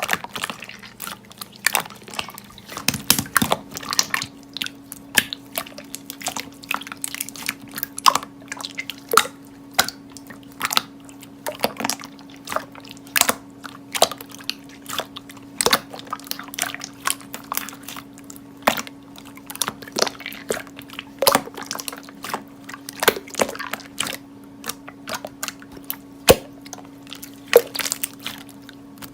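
Slime being squished and pressed by hand, making dense, irregular wet clicks and pops.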